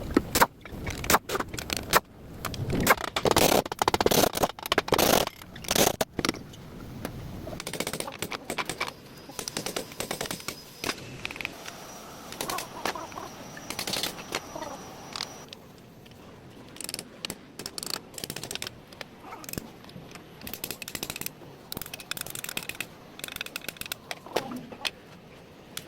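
Hand tools clicking, knocking and scraping on metal parts: a dense run of sharp knocks over the first several seconds, then quieter irregular clicks and scraping, with a faint high whine for a few seconds in the middle.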